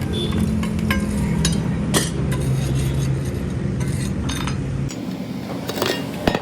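A workshop machine runs with a steady low hum that cuts off about five seconds in, while metal parts clink and knock.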